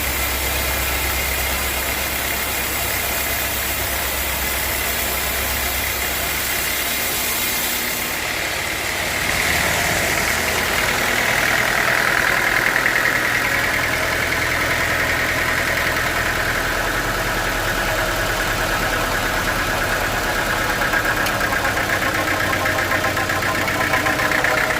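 Sawmill machinery running steadily. About nine seconds in, the sound changes and gets a little louder.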